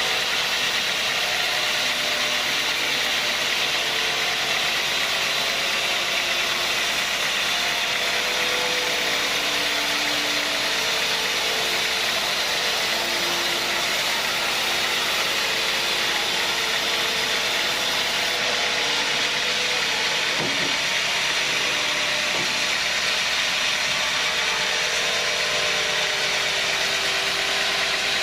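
Sawmill saw machinery running steadily: a constant loud mechanical noise with a strong hiss that holds the same level throughout.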